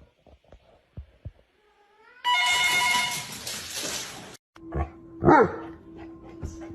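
A dog giving a long, loud, harsh cry a little over two seconds in, then a short yelp that falls steeply in pitch.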